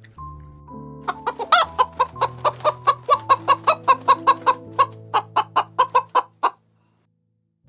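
A chicken clucking in a fast run of short calls, about four or five a second, over soft background music. The calls stop about six and a half seconds in.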